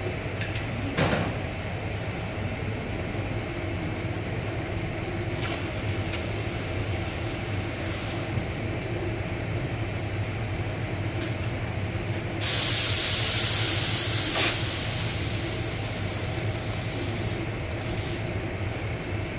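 A sudden burst of compressed air hissing from an air tool, held for about two seconds and then fading, over a steady workshop hum; a single knock about a second in.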